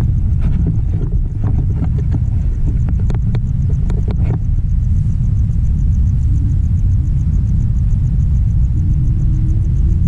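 Loud, steady low rumble, with a quick run of sharp clicks and knocks in the first half and a faint wavering tone near the end.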